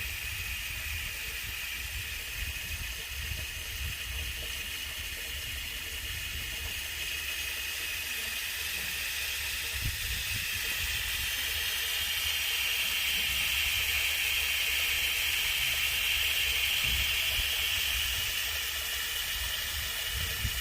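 Water pouring and splashing in a small homemade waterfall, a steady hiss that swells louder for a few seconds past the middle before easing back.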